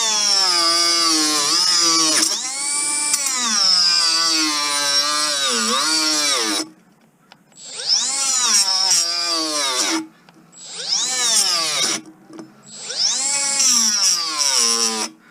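Milwaukee M12 cordless cut-off tool with an abrasive wheel, cutting into tire rubber. Its motor whine runs for about six and a half seconds, then comes in three shorter bursts, the pitch sagging repeatedly as the wheel bogs under load. The tool lacks the power to cut through: gutless.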